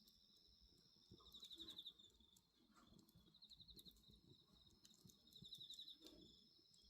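Faint, sparse crackling of a wood bonfire, with insects trilling: a steady high ringing and three short pulsed trills, about two seconds apart.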